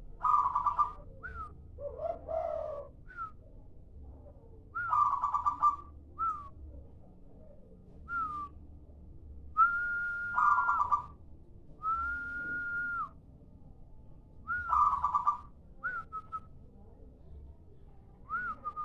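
Zebra dove (perkutut) cooing in repeated phrases, each a short upslurred note followed by a rapid rolling coo, about every four to five seconds. Near the middle come two longer, flat, whistle-like notes.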